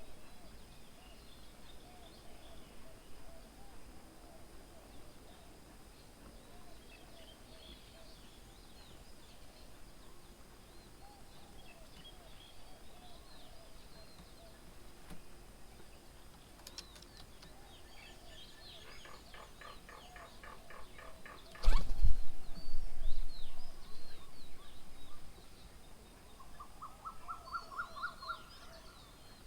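Several wild birds chirping and calling around a garden bird table, with two quick runs of rapidly repeated notes. About two-thirds of the way through, a single sharp knock, the loudest sound, is followed by a few seconds of low rumble.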